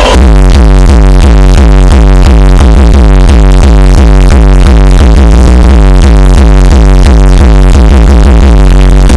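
Electronic dance music with a steady beat and heavy bass, played through a car audio system at full volume.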